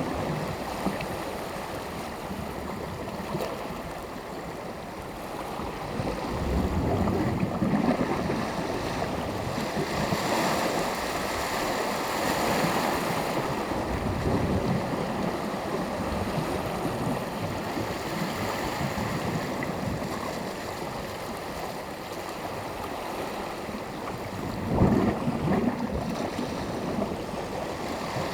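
Mediterranean surf: small waves breaking and washing on the shore in slow swells, with a sharper break near the end.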